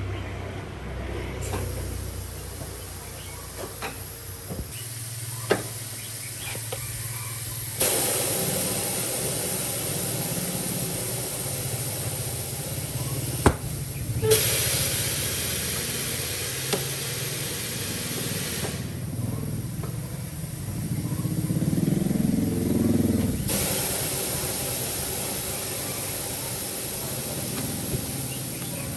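Compressed air hissing in three long bursts that each start and stop abruptly, with a few clicks and knocks in between.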